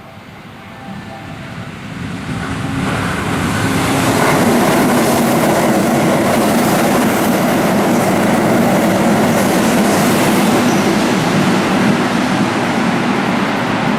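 Keihan 3000 series electric train running alongside the platform. Its running noise builds over the first few seconds as it comes closer, then holds loud and steady.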